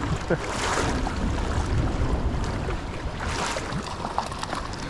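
Running water of the Howqua River rushing around a wading angler, with wind buffeting the microphone. The water noise swells louder twice, about a second in and again past three seconds.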